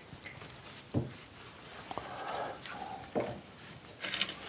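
A few separate light knocks and clicks, with faint rustling between them, from handling tools and parts at a metal lathe.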